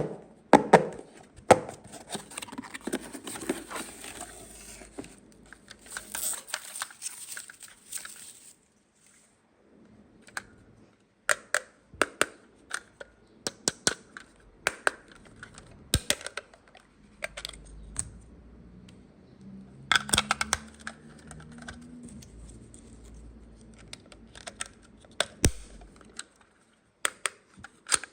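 Toy playset pieces and packaging being handled: rustling and tearing for the first several seconds, then a run of sharp clicks and taps of small hard parts.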